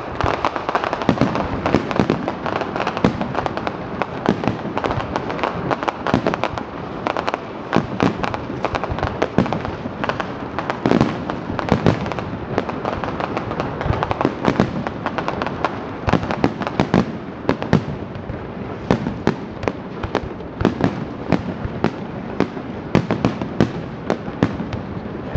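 Big fireworks display going off continuously: a dense, irregular barrage of bangs and crackling bursts over a steady rumble.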